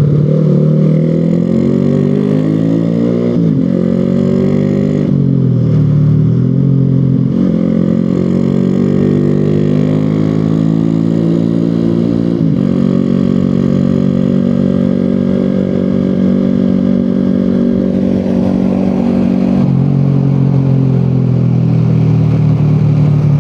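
Honda Revo 110 underbone motorcycle's single-cylinder four-stroke engine pulling along the road, its pitch climbing steadily as it accelerates and dropping sharply at each gear change, several times over.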